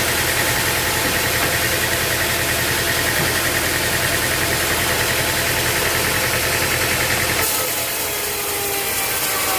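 Sawmill machinery running steadily with an engine's pulsing drone. About seven seconds in it cuts abruptly to a saw working, its whine falling slowly in pitch.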